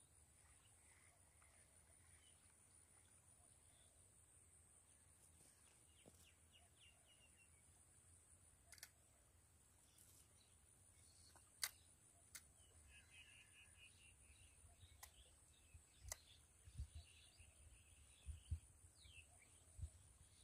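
Near silence outdoors: faint scattered bird chirps over a steady faint high whine, with a few sharp clicks and some low bumps in the second half.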